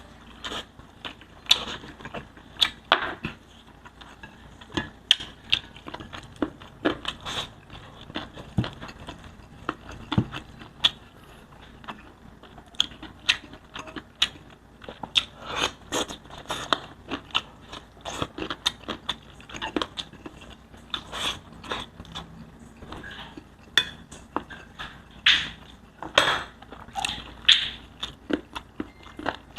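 Close-miked chewing and mouth smacking of a person eating pork belly, with irregular wet clicks and smacks several times a second.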